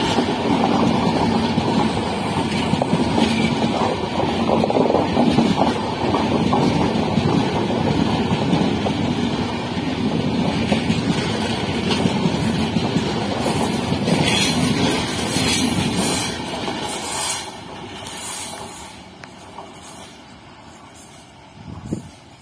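Indian Railways passenger coaches passing close by, their wheels rumbling and clattering over the rails. The noise drops off sharply about 17 seconds in as the last coach goes by and the train draws away.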